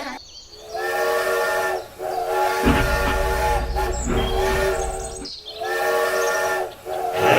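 A multi-tone horn or whistle, like a train horn, sounding a steady chord in several long blasts of a second or two each. A low rumble joins about two and a half seconds in.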